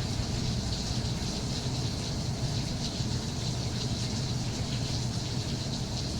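Steady rain falling, an even hiss with faint patter, over a steady low rumble.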